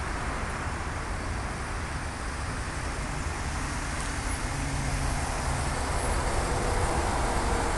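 BMW X6 xDrive50i's twin-turbo V8 idling: a steady low rumble with an even hiss above it, growing slightly louder near the end.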